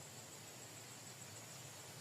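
Faint, steady background hiss with a thin, constant high-pitched whine and no calls.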